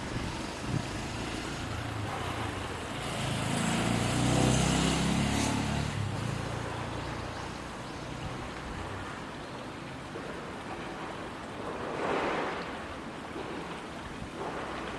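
Steady rush of water and wind, with a motor vehicle passing about three to six seconds in, its low engine hum swelling and fading. A short burst of noise comes about twelve seconds in.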